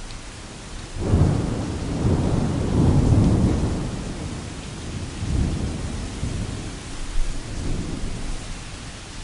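Thunder rumbling over steady rain falling on canvas. The thunder breaks in suddenly about a second in, swells, and rolls on in a few weaker waves before dying away near the end.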